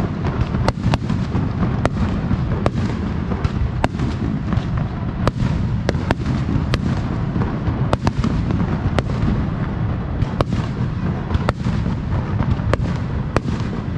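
Aerial fireworks going off in a barrage: many sharp cracks at irregular intervals, several a second, over a continuous rumble of booming shell bursts.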